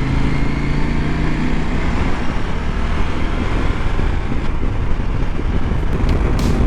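Adventure motorcycle's parallel-twin engine running at road speed, under heavy wind rushing over the microphone. The engine's steady tone sinks into the wind noise about two seconds in.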